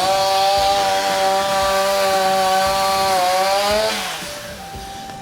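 Two-stroke chainsaw run at high revs for about three seconds, then the pitch drops and the sound falls away as the throttle is released.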